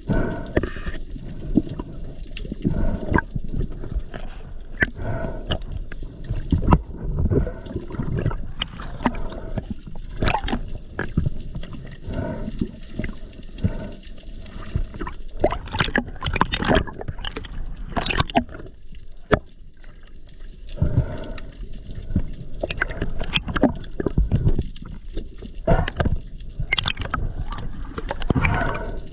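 Water sloshing and gurgling, with irregular splashes and knocks throughout.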